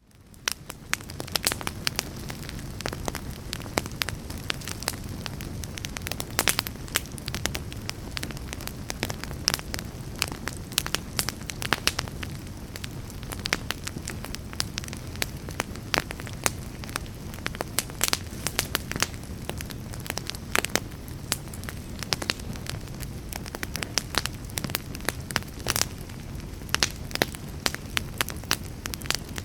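Campfire burning: a low, steady rumble of flames with frequent sharp, irregular crackles and pops from the wood. It fades in at the start.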